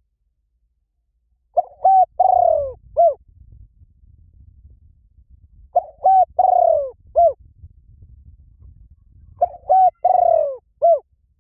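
Spotted dove cooing, a recorded lure call repeated three times, about four seconds apart. Each phrase is a couple of short coos, a longer falling coo, then a short closing coo.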